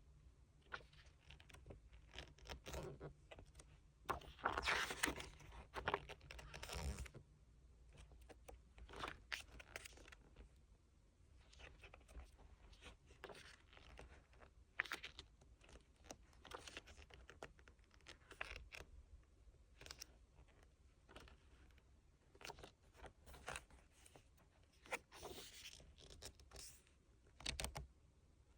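Handling of an album photobook's packaging and inserts: paper and plastic rustling, with small taps and clicks. There is a longer stretch of rustling and tearing about five seconds in, and shorter bursts near the end.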